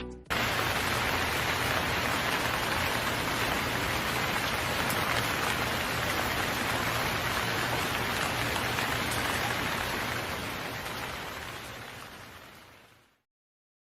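Steady hiss of falling water that begins abruptly and fades out near the end.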